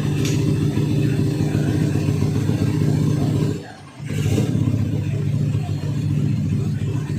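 Single-cylinder engine of a Honda Megapro motorcycle running at a steady idle through an aftermarket CTS capsule muffler, giving a deep, bassy exhaust note. The sound drops away briefly a little before four seconds in, then picks up again.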